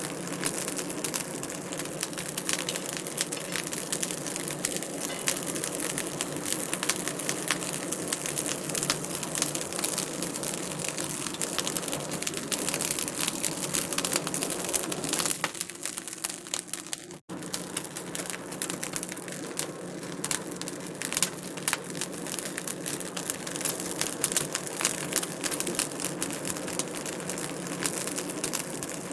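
Wood fire crackling in a fireplace: a dense, steady run of small pops and snaps over a soft hiss, with a momentary dropout about seventeen seconds in.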